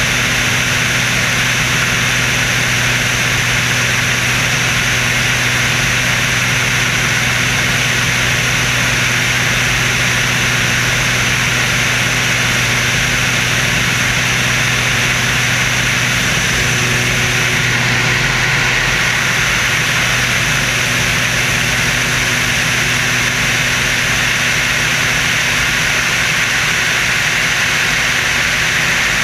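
Screamin' Sasquatch stunt biplane, its radial piston engine and added jet engine running at a steady, loud drone under a constant rush of wind noise.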